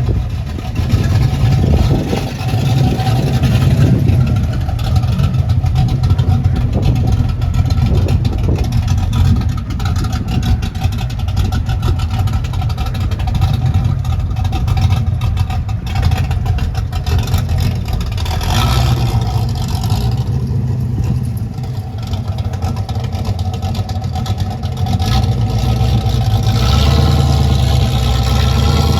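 A car engine running close by, loud and steady with a low, rapid pulsing exhaust note.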